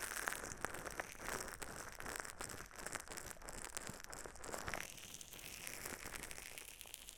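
Close-miked ASMR crinkling: a dense, continuous run of small crackles, as of a crinkly material being handled.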